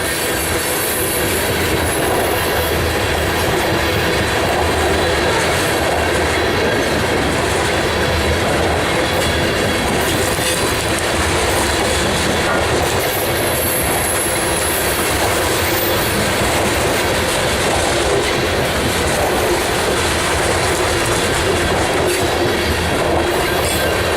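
Freight cars of a unit grain train rolling steadily past, a continuous rumble of steel wheels on rail with clickety-clack over the rail joints and faint, intermittent high wheel squeal.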